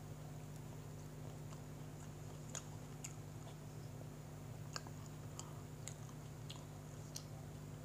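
Close-miked chewing of a mouthful of sandwich: scattered soft wet mouth clicks at irregular intervals, over a steady low hum.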